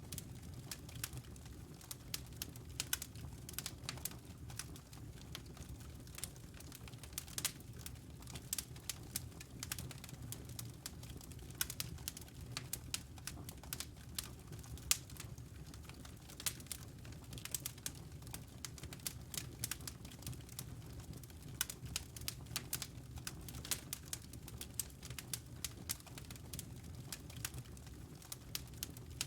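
Wood logs burning in a fireplace, crackling with frequent, irregular sharp pops over a steady low rumble of the fire.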